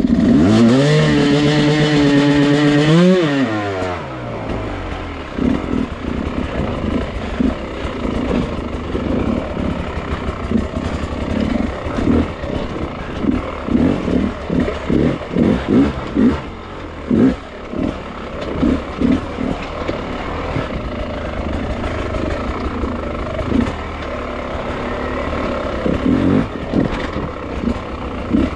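Beta enduro dirt bike engine revving high for about three seconds, then dropping to low revs with repeated short bursts of throttle.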